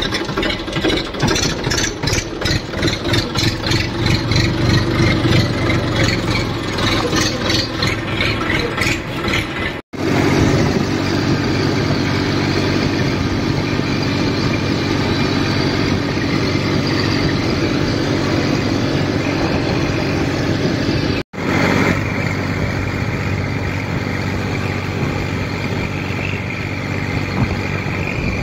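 Massey Ferguson tractor's diesel engine running steadily. The sound cuts out abruptly twice, about ten and twenty-one seconds in.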